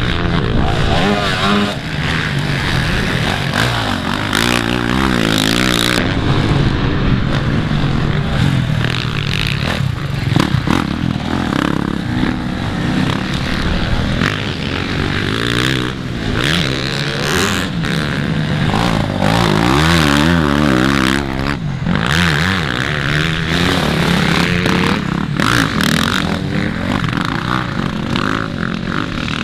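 Motocross dirt bikes racing on the track, several engines revving up and dropping back over and over as riders accelerate and shift.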